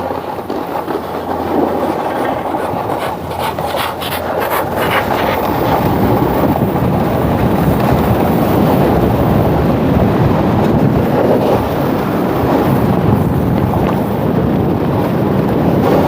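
Snowboard sliding and carving over hard-packed snow: a continuous rough scraping, with a cluster of sharper chattering scrapes about three to five seconds in, and getting louder about six seconds in.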